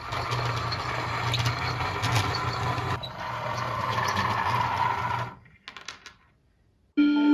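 A machine or motor-driven tool running with a steady low hum under dense rattling noise, stopping about five seconds in with a few clicks. Music starts near the end.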